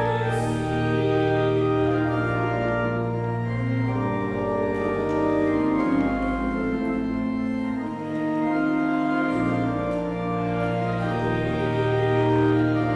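Organ playing a hymn in slow, held chords.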